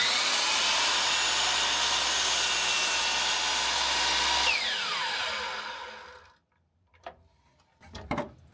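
DeWalt DWS779 sliding miter saw with a new 100-tooth Freud Diablo crosscut blade starting up with a rising whine and running through a test cut in wood. About four and a half seconds in the motor is released and winds down with a falling whine, stopping about six seconds in, followed by a couple of small knocks.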